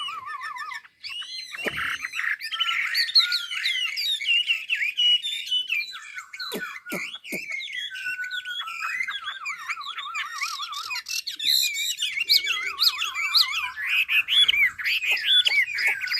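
A caged mi songbird singing a long, varied song without pause, mixing rapid wavering trills with rising and falling whistles and warbles.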